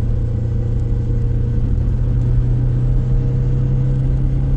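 A motor vehicle's engine running steadily, a constant low hum over a rumble, with no change in pitch.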